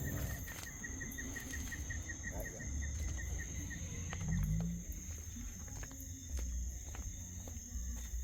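Insects calling: a steady high-pitched buzz, with a rapid run of chirps at about five a second that stops a little over two seconds in. A low rumble and scattered clicks run underneath.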